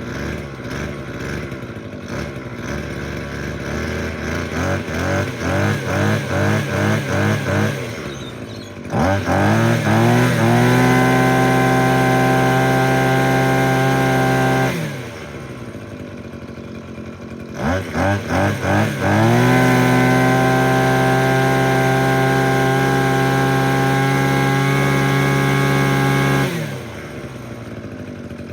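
Tanaka TCG 27 ESI brushcutter's small two-stroke engine idling with an uneven, pulsing beat while still a little cold. It is then revved to high throttle and held for about five seconds, drops back to idle, is blipped a few times, and is held high again for about seven seconds before falling back to idle.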